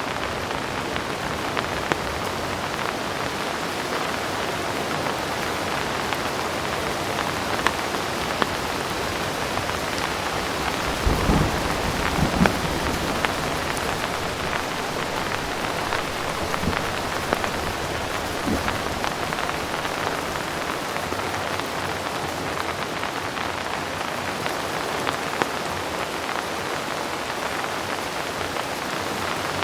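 Heavy rain falling steadily with a dense, even hiss and scattered sharper drop ticks. About eleven seconds in, a brief low rumble of distant thunder rises and fades over a second or two.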